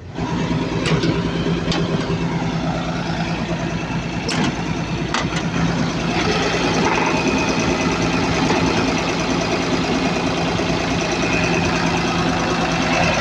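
Cat 320D2 L excavator's diesel engine running at a steady speed, loud and close, becoming suddenly louder right at the start. A few sharp clicks and knocks sound over it in the first five seconds.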